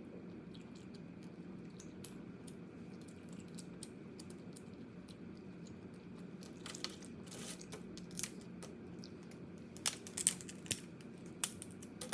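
Close-miked eating: crab shell cracking and crunching between the teeth, heard as scattered small sharp cracks and clicks that come thicker and louder in the second half.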